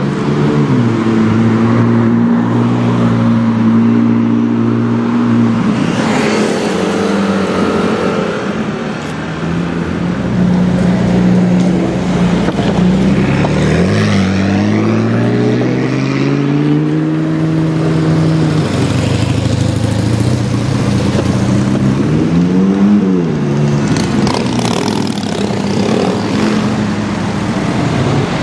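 McLaren 675LT's twin-turbo V8 running at low road speed, its revs holding steady and changing as it drives. There is a long rise in revs about halfway through and a quick blip up and back down about three quarters of the way in.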